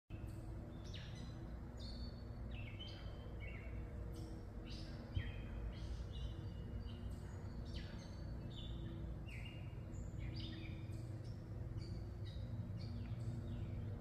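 Songbirds calling in the trees, short chirping notes several times a second, over a low steady hum. A single brief knock about five seconds in.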